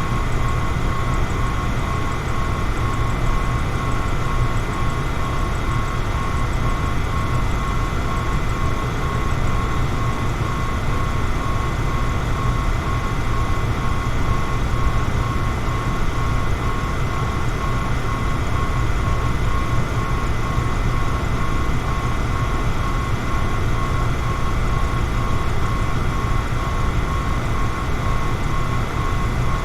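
Electric fan running steadily: an even rush of moving air with a low rumble and a thin, constant high tone from the motor above it.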